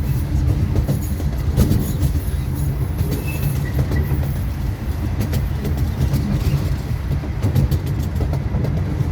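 Small zoo train running on its rails, heard from aboard: a steady low rumble with scattered clicks of the wheels over the rail joints.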